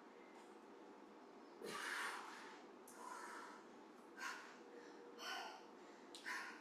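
A woman breathing hard during an intense exercise interval: short, forceful exhales about once a second, the strongest about two seconds in, all faint.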